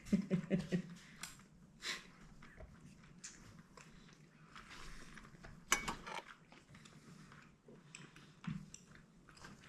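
Eating at a table: chewing and utensils clicking against a plate, with one sharper click about six seconds in. A brief murmur of a voice opens it.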